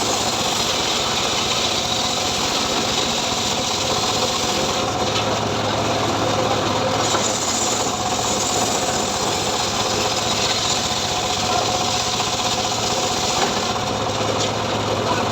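Engine-driven homemade sawmill running steadily while its blade saws through a sengon log, an engine hum under a continuous rasping cut.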